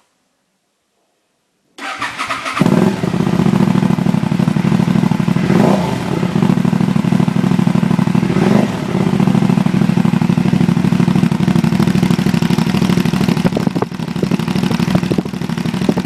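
Aprilia Dorsoduro 750's V-twin engine with an Arrow aftermarket exhaust starting after a brief crank, then idling with a deep, steady beat. It is briefly revved twice near the middle.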